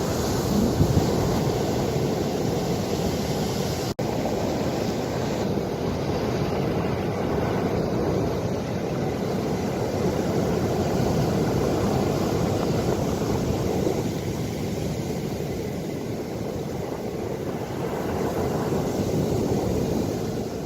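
Ocean waves washing steadily, with wind buffeting the microphone. There is a brief dropout about four seconds in.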